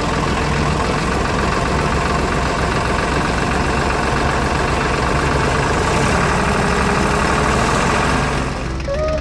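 Tractor engine running steadily at idle, with a low, even pulse. It eases off near the end as music comes in.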